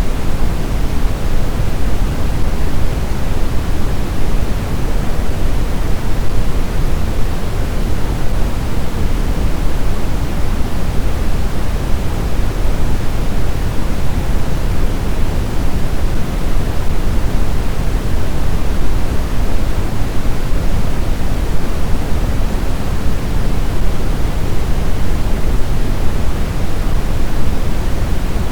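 Snowstorm wind as a steady, even rush of noise, heaviest in the low end, with no separate gusts or swells.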